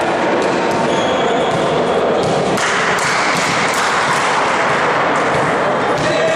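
Crowd noise in a sports hall during a game, with repeated sharp thuds of a ball and a few brief squeaks of shoes on the court floor.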